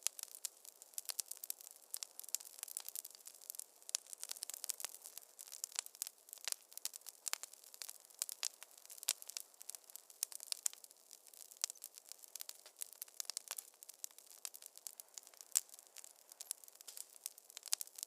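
Wood fire crackling in a fireplace: dense, irregular sharp pops and snaps over a soft hiss, a few louder pops standing out.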